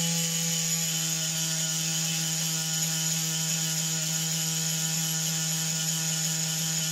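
Small electric motor and gearing of a Meccano model combine harvester running steadily, a constant whirring hum with no change in speed.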